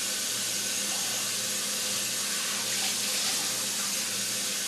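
Kitchen tap running steadily into the sink, rinsing the soaking milk off the liver.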